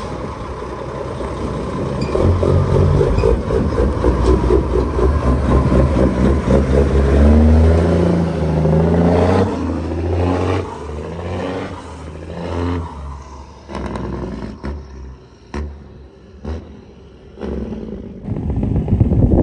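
Cat 6NZ diesel engine of a loaded Kenworth W900L running under load. It grows louder over the first several seconds, then drops in pitch about ten seconds in and eases off into a quieter stretch with scattered clicks and knocks.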